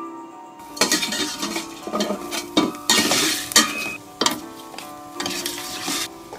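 Food sizzling in a pan while being stirred, with a utensil scraping and clinking against the pan; background music with steady tones plays throughout.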